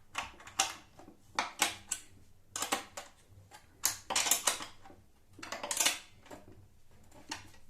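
Hand wrench tightening nuts onto bolts of a plastic router table: a run of short, irregular metallic clicks and scrapes, several a few seconds apart, in a small room.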